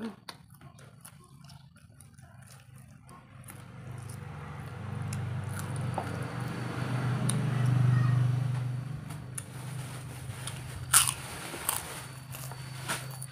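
Close-up mouth sounds of biting and chewing a fried chicken wing, with crunches and sharp clicks, the sharpest near the end. A low steady hum swells through the middle and fades.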